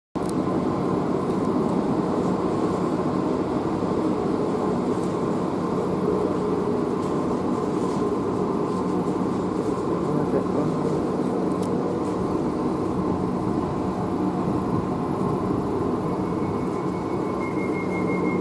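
A train running through the station: a steady rumble with a constant hum under it. A thin high tone comes in near the end.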